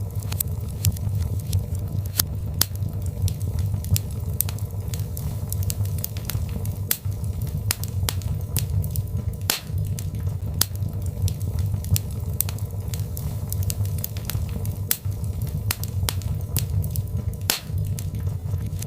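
Birch logs burning in a fireplace: frequent sharp crackles and pops over a steady low rumble.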